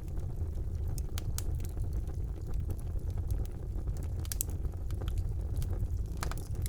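Wood fire burning in a fireplace: a steady low roar of flames with irregular sharp crackles and pops.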